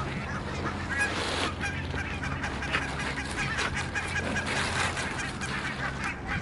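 A flock of geese honking, many short calls overlapping one another.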